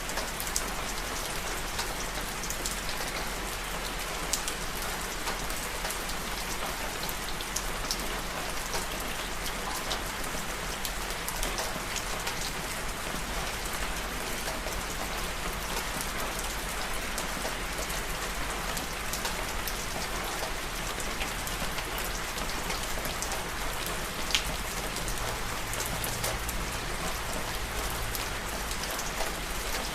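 Steady rain falling, with many scattered sharp drop hits among the even hiss of the downpour.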